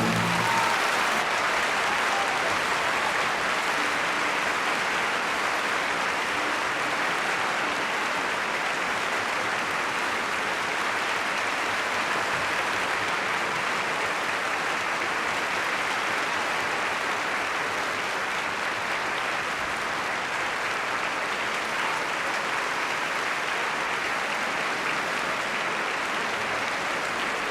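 Concert hall audience applauding steadily after the final chord of a piano concerto, sustained clapping with no music.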